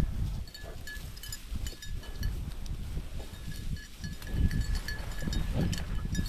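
A small bell jingles steadily as a hunting dog works through field cover, over the crunch and rustle of footsteps in brush.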